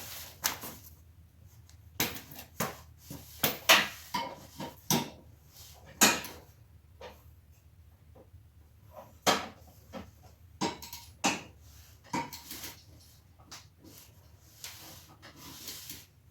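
Scattered metallic clanks and knocks of hand tools and steel parts, irregularly spaced, while a riding mower's 26-inch cutting blade is fitted and bolted on with a socket.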